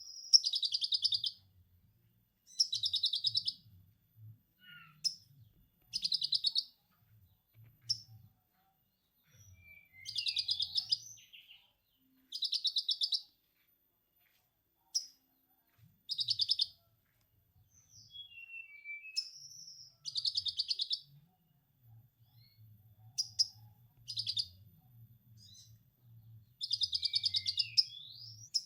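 A konin songbird singing lovebird-style 'ngekek' chatter: bursts of rapid, high repeated notes about a second long, every couple of seconds, with short falling whistles in between.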